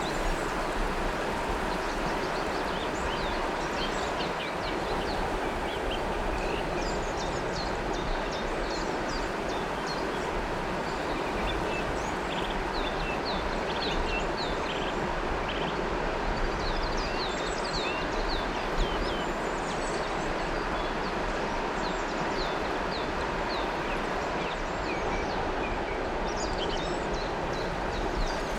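Steady rush of flowing river water, with many small birds chirping and twittering over it throughout.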